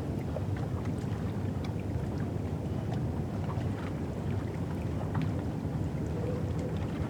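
Riverside ambience on the Thames foreshore: a steady low rumble, with small scattered clicks and ticks of water on the shore and a faint wavering tone near the end.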